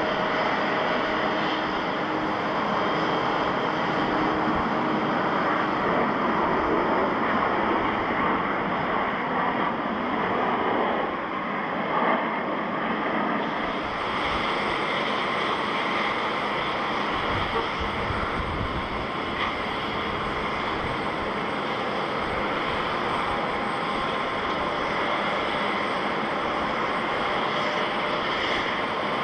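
Jet airliner engines running with a steady, continuous noise.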